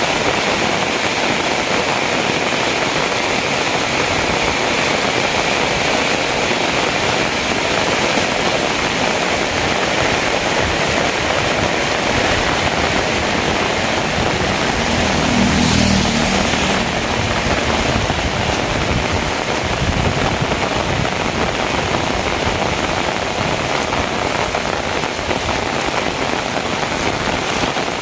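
Heavy rain falling steadily. A low rumble swells briefly about halfway through.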